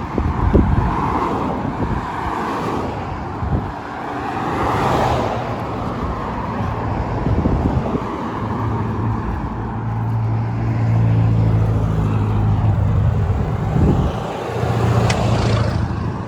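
Road traffic: cars passing, their noise swelling and fading, with a steady low engine hum partway through over a continuous low rumble.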